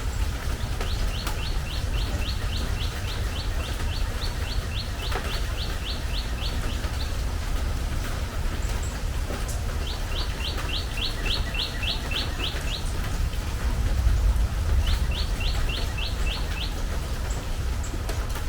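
Steady rain on a metal porch roof, with a low rumble beneath it. A bird sings a fast series of repeated slurred notes in three bouts over the rain.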